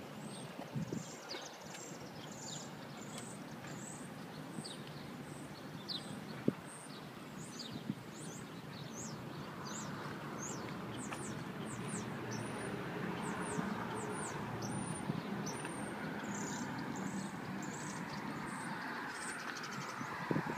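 A bird chirping over and over, short high chirps that sweep downward, one or two a second, over a steady outdoor background noise that grows a little louder in the second half. A single sharp click about six seconds in.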